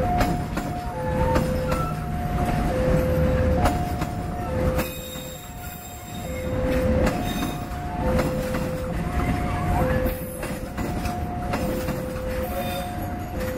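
Passenger train carriages rolling past, with a low rumble and wheels clicking over rail joints. Over it, an electronic two-note warning tone alternates a higher and a lower note, a full cycle a little under every two seconds.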